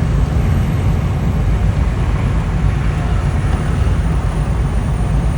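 Steady, loud low rumble of a semi-truck's engine and road noise at highway speed, heard from inside the cab.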